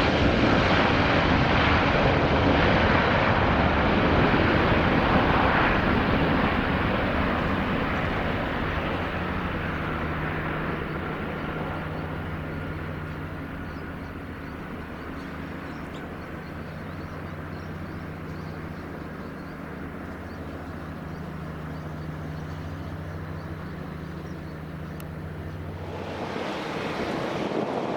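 An Airbus A350's Rolls-Royce Trent XWB engines at takeoff thrust, a loud jet roar that fades over about ten seconds as the aircraft climbs away and leaves a low, steady rumble. Near the end a rushing noise rises suddenly.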